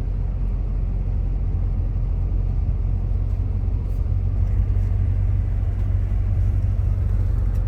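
Rebuilt Chrysler on the move, heard from inside the cabin: a steady low engine and road rumble.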